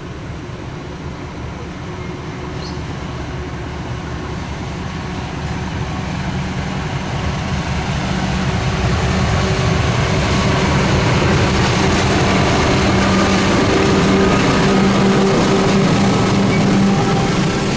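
Diesel-hauled passenger train approaching, its steady engine drone and rail noise growing louder over the first ten seconds or so, then staying loud as it runs close by.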